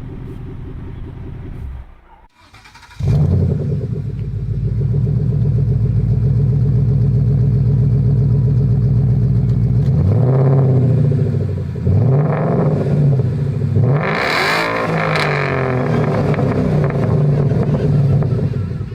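Ford Mustang GT's 5.0 V8 exhaust idling, then revved in four quick throttle blips, the biggest about two-thirds of the way through. About two seconds in, the idle drops away briefly and comes back noticeably louder.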